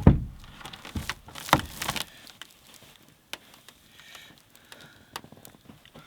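A pickup truck's tailgate being handled: a heavy thump, then a few sharp knocks about a second in, followed by light clicks and rustling.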